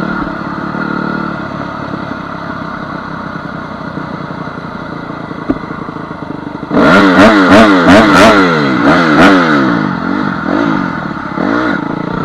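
Honda CR250 two-stroke dirt bike engine running at a steady part-throttle drone, then, about seven seconds in, turning much louder with its revs swinging quickly up and down, about three times a second, for several seconds before settling.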